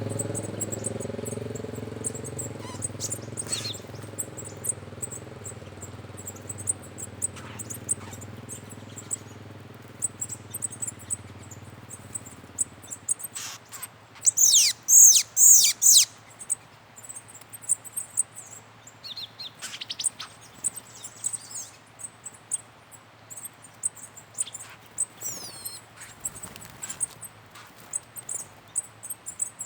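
Wild birds calling, with scattered high chirps and, about halfway through, a loud run of high, quickly falling notes lasting about two seconds. A low engine hum fades out and stops a little before that.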